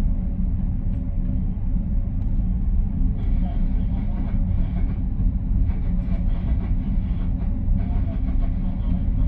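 Commuter train rolling along the track, heard from inside the rear car: a steady low rumble with a few faint clicks from the wheels on the rails.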